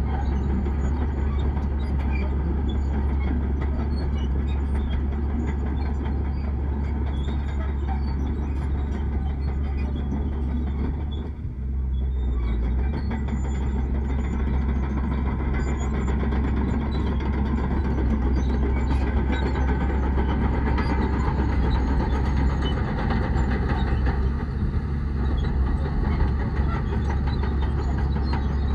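Heavy diesel earthmoving machinery running steadily with a deep low rumble, dipping briefly about eleven seconds in.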